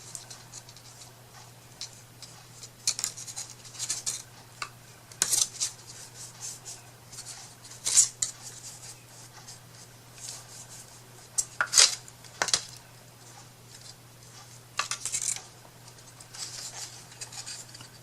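Irregular small clicks, taps and scraping from hands working wooden craft pieces and tools on a work surface, with two sharper knocks about 8 and 12 seconds in. A low steady hum runs underneath.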